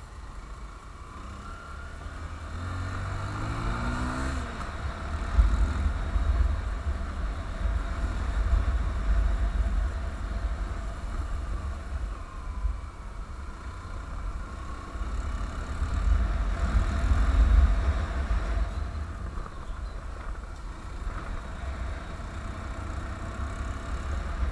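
Honda CBF150 single-cylinder motorcycle engine accelerating, its pitch climbing a few seconds in, then running at speed. Heavy wind buffeting on the microphone swells and fades over the engine.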